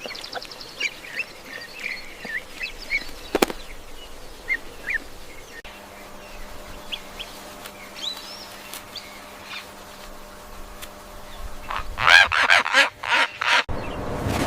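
Birds calling: short chirps in the first few seconds, then a run of several loud calls a little before the end.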